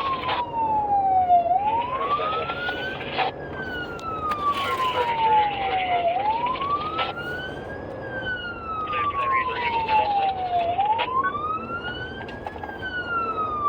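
Emergency vehicle siren on a wail, its pitch rising quickly and falling slowly in long sweeps about every four and a half seconds, over a steady rush of road noise.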